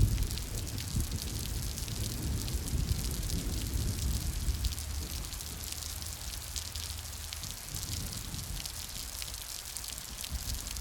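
Steady rain, a hiss made of many separate drop ticks, over a low rumble that dies away about halfway through.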